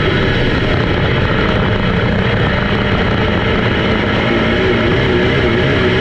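Race car engines running steadily and loudly around the track, with an engine note that wavers up and down in pitch near the end.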